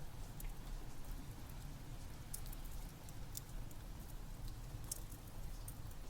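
Steady rain with the scattered sharp pops and crackles of a wood fire, a few per second.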